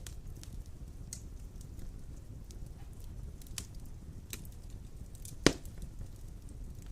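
Wood fire burning in a fireplace: a steady low rumble of flames with scattered small crackles, and one loud pop about five and a half seconds in.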